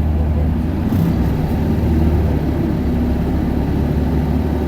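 Isuzu Erga 2KG-LV290N2 city bus's four-cylinder diesel engine running at high revs, pulling hard, its pitch shifting as it goes.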